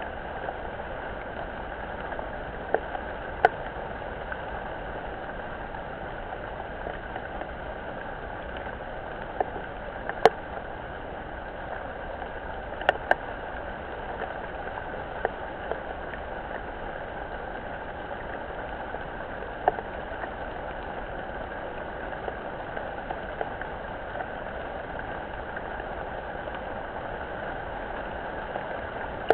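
Steady rain on a pond through a webcam microphone: an even hiss with a dozen or so sharp taps of drops scattered through it, dull and lacking the high end.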